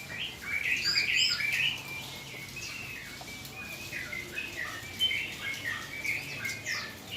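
Yellow-vented bulbul (trucukan) chirping and calling in a quick run of short notes, loudest about a second in.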